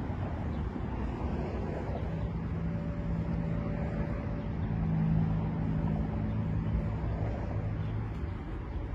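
A vehicle engine running, a low steady hum that grows louder towards the middle and fades again, over outdoor background noise.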